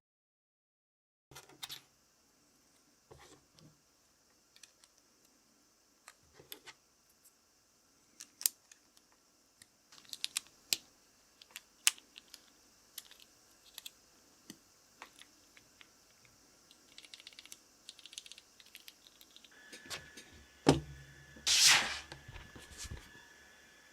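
Typing on a GergoPlex keyboard with Krytox-lubed Kailh Choc Red low-profile switches: sparse, irregular key clicks that grow busier toward the end. Near the end comes one louder clatter.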